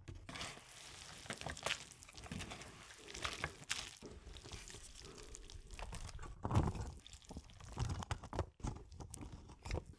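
Eating sounds at a table: utensils clicking against dishes and wet food being handled, in scattered short clicks and soft liquid sounds.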